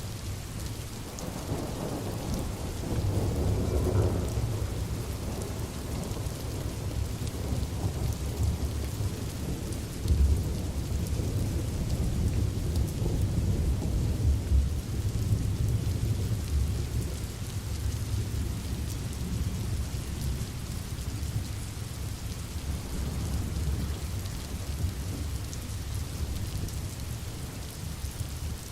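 Steady rain falling, with low rumbling thunder that swells about two seconds in and again about ten seconds in.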